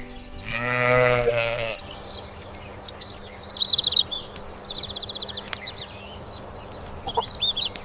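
A sheep bleats once, a call of about a second and a half, then small birds chirp and trill in quick high notes.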